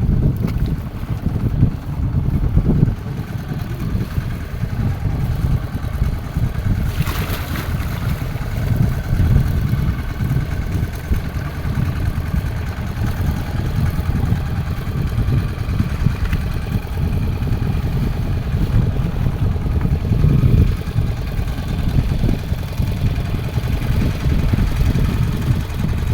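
Fishing boat's engine running steadily, with a brief rush of noise about seven seconds in.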